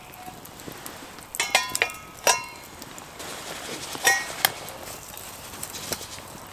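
Metal camp cookware and utensils knocking and clinking, with a ringing tone after each knock. There is a cluster of knocks about a second and a half in, then a sharper one just after two seconds, and another pair about four seconds in.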